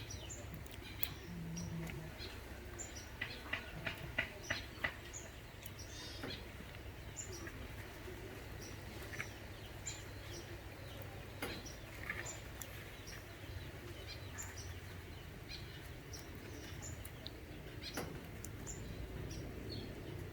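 Birds chirping in short, high, scattered notes, with a quick run of sharp clicks or taps about three to five seconds in.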